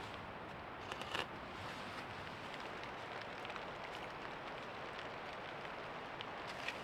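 Light patter of raindrops and drips over a steady soft hiss, with scattered small ticks and a brief rustle about a second in.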